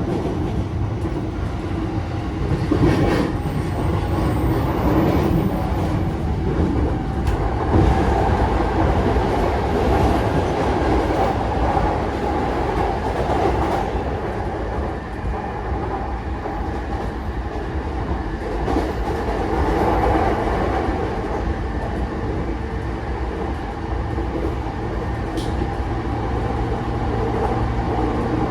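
JR East E233-5000 series electric commuter train running at speed between stations: a continuous rumble of wheels on rail with a faint steady hum, and a few sharp clacks over rail joints.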